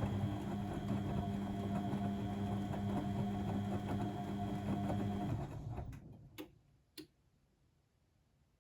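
Blomberg WAF 7442 SL washing machine's motor turning the drum, a steady hum with a fast ticking. It runs down and stops about five seconds in, and two sharp clicks follow about half a second apart.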